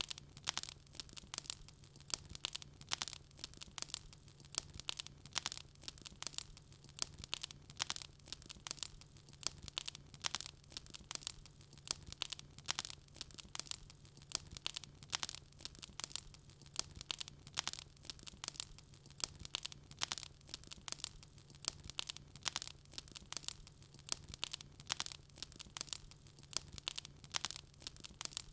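Wood fire crackling: a dense run of irregular sharp pops and snaps, several a second, over a faint steady low hum.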